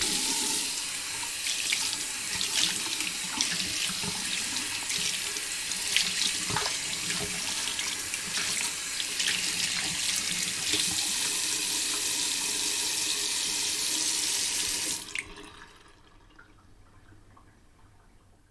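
Hands being washed under a running sink tap, the steady flow broken by many small splashes. About fifteen seconds in the flow stops sharply, leaving a faint trickle that fades out.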